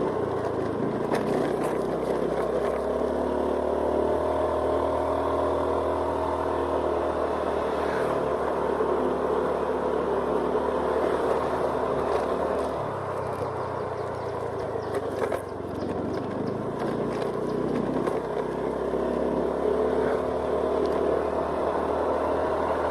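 Honda Scoopy scooter's single-cylinder four-stroke engine running at road speed, heard from the rider's seat with road and wind noise. About halfway through the engine eases off and quietens for a few seconds, then picks up again.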